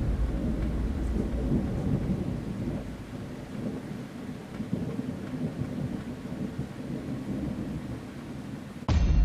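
Thunder rumbling over steady rain, the rumble fading over the first few seconds. Near the end it cuts suddenly to music.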